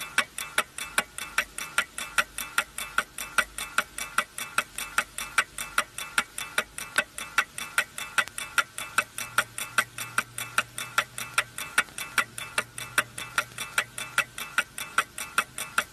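Rockford electric watch ticking: a rapid, even run of sharp ticks, about five a second.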